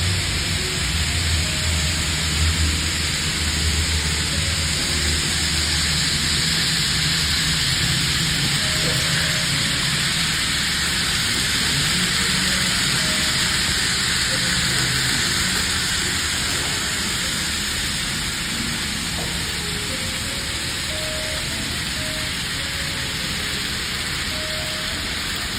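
Train running: a steady rushing noise over a low hum, the hum strongest in the first few seconds.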